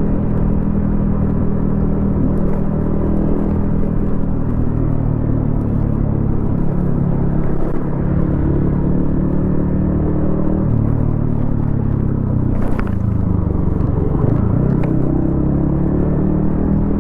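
Yamaha XSR155's single-cylinder 155 cc engine running under way through a homemade exhaust, heard from on the bike. Its pitch holds steady, then drops and climbs again a couple of times in the second half as the throttle is eased and reopened. A short sharp click sounds a little past halfway.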